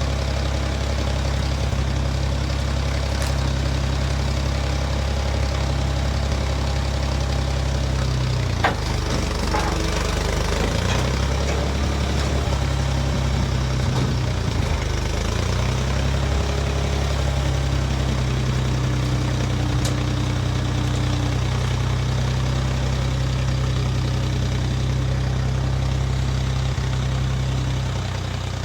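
Large engine idling steadily, its pitch wavering for several seconds in the middle, with a single sharp knock about nine seconds in.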